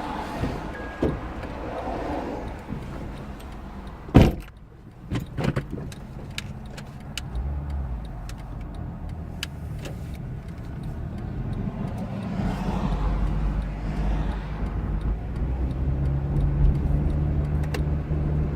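A single loud thump about four seconds in, followed by a few light clicks, then a vehicle engine running steadily, getting louder over the last several seconds.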